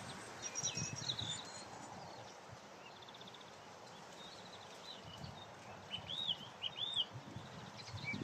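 Song thrush singing in short, separate phrases, including a fast trill and a pair of arching whistled notes repeated near the end. Underneath is a low rumble of wind on the microphone and passing traffic.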